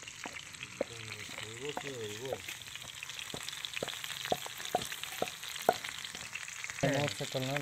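Whole mice frying in hot oil in a small steel pan, a steady sizzle, with sharp clicks and scrapes as a steel spatula turns them against the pan.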